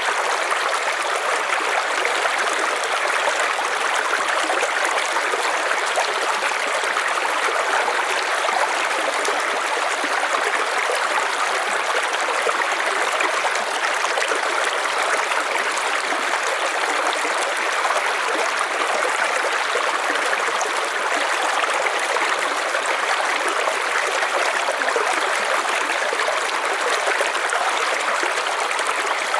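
River water flowing over stones, a steady rushing and babbling with no pauses.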